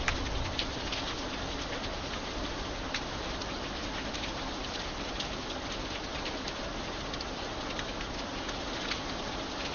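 Steady light rain, many separate drops ticking sharply on a hard surface over an even hiss.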